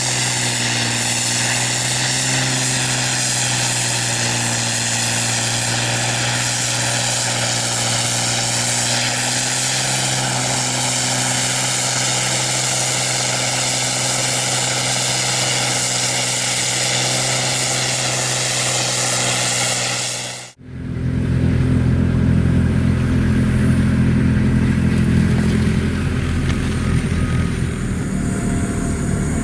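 Snow-clearing machine engine running steadily at a constant pitch, with a high whine and hiss over it. About two-thirds of the way through it cuts off abruptly and a louder, deeper rumble of another machine follows.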